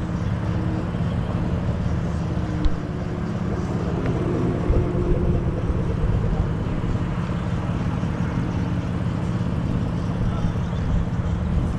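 Car engine running steadily, a continuous low drone that holds the same level throughout.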